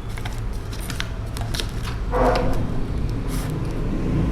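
Hands handling small parts and multimeter probes: a series of light clicks and taps, with a short pitched sound about two seconds in, over a steady low hum.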